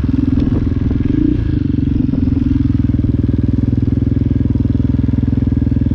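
Dirt bike engine running, rising briefly in revs a little over a second in, then holding steady.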